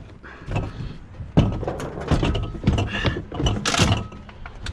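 Repeated knocks, clunks and rattles of scrap items being handled and set down, the loudest knock about one and a half seconds in, with a brief scrape near the end.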